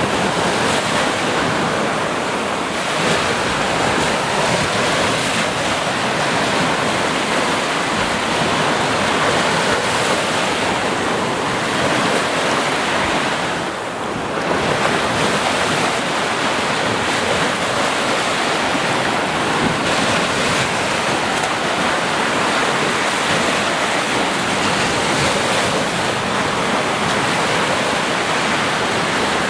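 Sea waves washing onto a beach in a steady, continuous surf, easing briefly about halfway through before building again.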